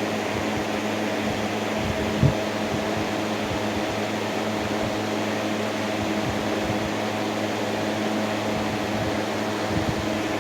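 2007 Hawaiian Breeze FB50-A3 20-inch box fan running on medium speed: a steady rush of air over a low motor hum, with one brief thump about two seconds in.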